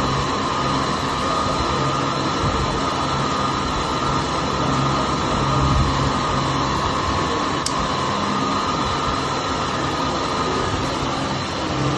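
A steady mechanical drone with a constant low hum and a higher whine, unchanging throughout.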